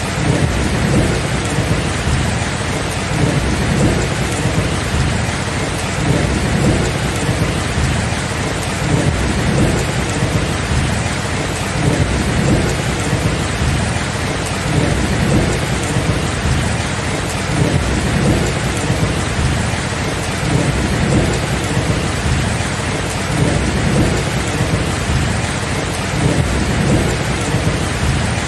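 Steady heavy rain falling, with thunder rumbling low and continuously underneath in slow rolling surges.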